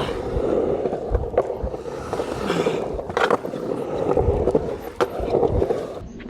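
Skateboard wheels rolling with a steady rumble during a run, with a few sharp knocks from the board, picked up by a camera clamped to the skateboard itself.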